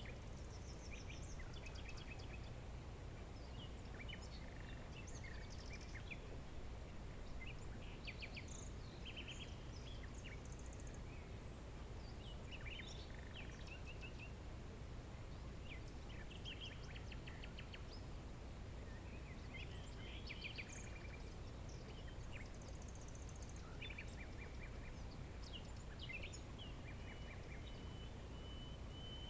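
Faint songbirds chirping and calling, many short calls scattered throughout, over a steady low background rumble.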